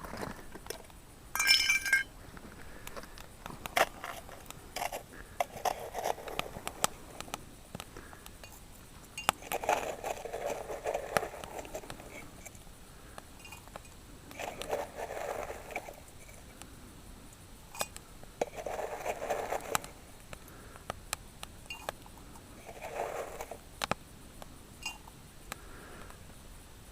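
Clinks and scrapes of metal and glass tea-making utensils, with one ringing strike about two seconds in and several soft rushing sounds of a second or two each.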